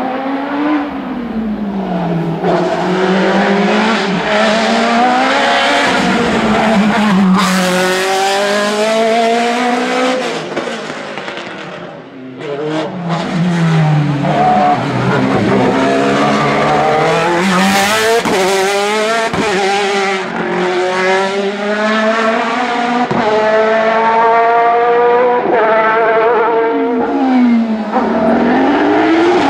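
Racing car engine at full throttle on a hillclimb, its pitch climbing through each gear and dropping at every shift, over and over. The sound dips briefly about twelve seconds in, then the revving picks up again.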